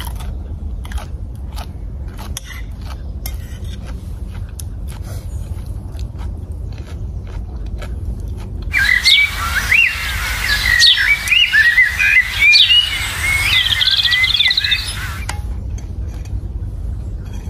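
Outdoor ambience with small birds chirping and twittering. The birdsong is loudest in a stretch from about nine to fifteen seconds in, with a hiss behind it that starts and stops abruptly. Under it runs a steady low rumble, with scattered light clicks in the first half.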